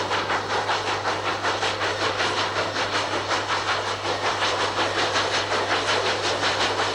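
Santa Fe 4-8-4 Northern steam locomotive No. 3759 working hard upgrade: an even, rapid beat of exhaust chuffs, about four a second, over the hiss of steam.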